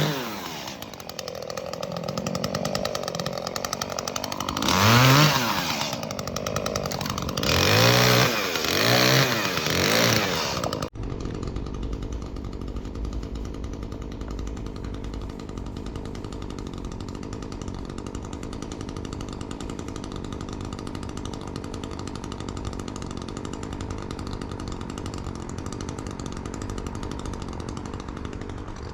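Chainsaw running and revving up several times, its pitch climbing and falling with each rev, loudest about five and eight seconds in. About eleven seconds in, the sound switches abruptly to a steady low engine drone.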